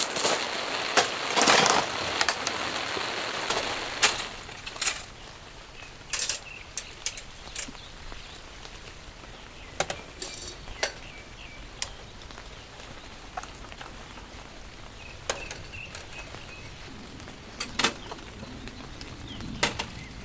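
Rain hissing for the first few seconds, then scattered sharp clicks and knocks over a quieter rainy background.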